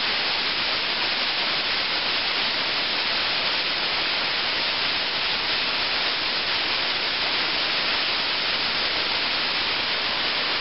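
Steady, even rush of a waterfall, with no change in level.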